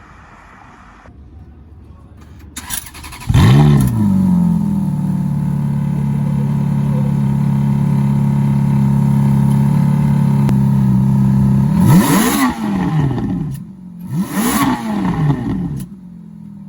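A performance car engine is revved sharply, then held at steady high revs for about eight seconds. It is then blipped up and down several more times before settling to a lower, steady note near the end.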